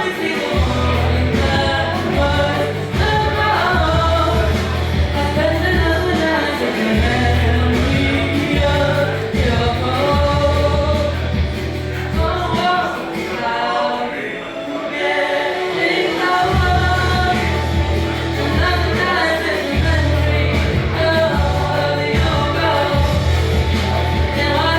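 Singing over music with a heavy bass line; the bass drops out for a few seconds around the middle.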